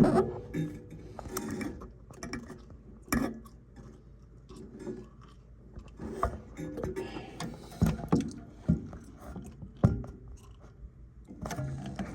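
Irregular metal clanks, clicks and scrapes from hand tools and sheet-metal gas-furnace parts being handled during disassembly.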